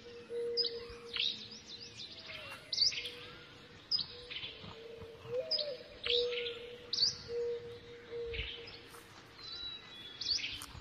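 Wild birds calling in leafy woodland: short, sharp, high chirps that drop quickly in pitch, repeated irregularly about every second or two.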